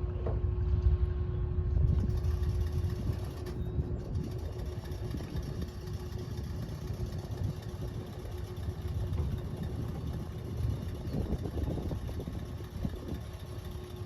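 A motor running steadily, with one constant humming tone over a low rumble, while a light aircraft is being refuelled.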